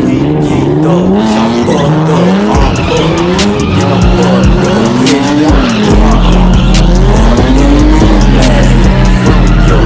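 A car doing a burnout or donuts: its engine revving up and dropping again and again, with tires squealing on the pavement. Music with a deep bass plays under it, heavier from about six seconds in.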